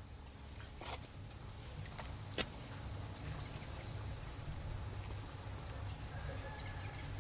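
Insects buzzing steadily in one unbroken high-pitched drone, with two faint clicks in the first few seconds.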